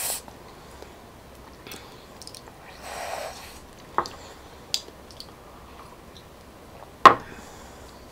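Close-miked chewing of coconut palm grubs, mostly quiet, with a soft breathy rush about three seconds in and a few sharp mouth clicks, the loudest about seven seconds in.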